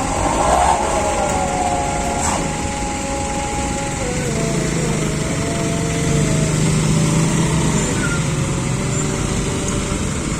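Truck engine running under load during a cable recovery of a truck stuck in mud, its pitch stepping down a few times partway through.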